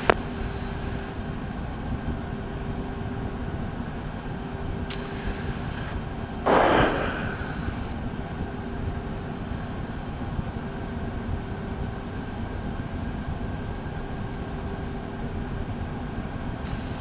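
Steady cockpit hum of a Beechcraft Premier I's twin turbofan engines idling, with a faint steady tone underneath. About six and a half seconds in, a brief rush of noise lasts under a second.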